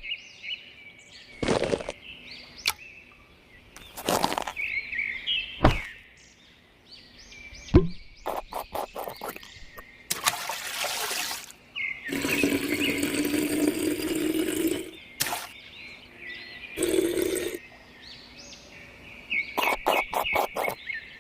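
Water from a miniature toy siphon pump pouring and splashing in a few stretches of several seconds, among sharp clicks and knocks from handling small plastic parts. Birds chirp in the background.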